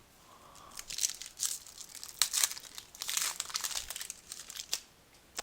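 Crinkling and tearing of a trading-card pack's foil wrapper as it is torn open and handled: a run of irregular sharp crackles lasting about four seconds.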